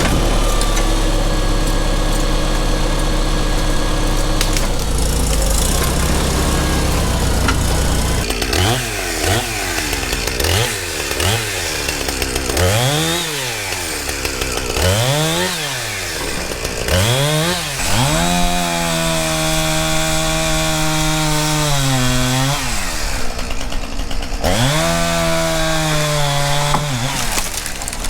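Chainsaw: a steady low engine hum for the first eight seconds or so, then the saw revved up and down in a series of short throttle blips. About eighteen seconds in it is held at high revs for a few seconds, the pitch sagging slightly as if under load in a cut, then drops back, with one more long rev near the end.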